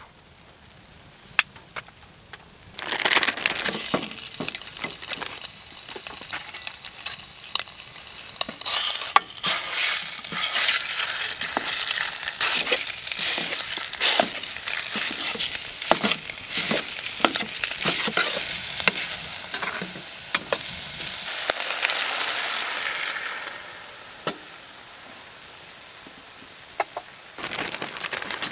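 Italian sausage going into a hot oiled pan about three seconds in, then sizzling and spattering loudly, with clicks and scrapes as it is stirred. The sizzle dies down near the end.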